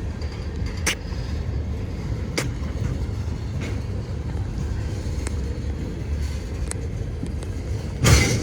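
Freight cars rolling past on the rails: a steady low rumble of steel wheels on track, with scattered sharp clicks and a louder clank near the end.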